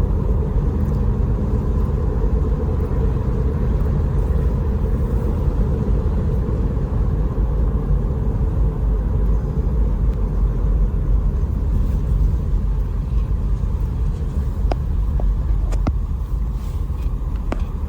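1963 Buick Skylark with its 215 cubic-inch aluminum V8 and automatic transmission on a road drive: steady engine and road rumble. A few faint clicks come near the end.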